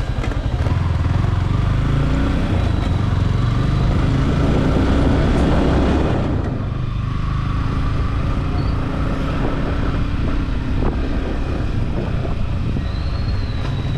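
Yamaha R15 V4 motorcycle running on the road. Its sound builds for about six seconds, then eases off suddenly and carries on steadily.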